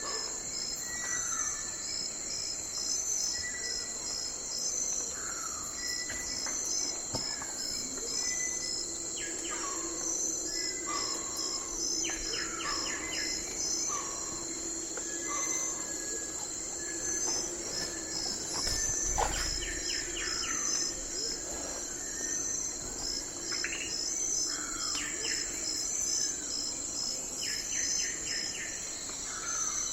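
Night forest ambience: a steady chorus of crickets and other insects chirping in an even, rapid pulse, with birds repeatedly giving short sliding chirps and quick trills over it. A brief low thump sounds a little past halfway.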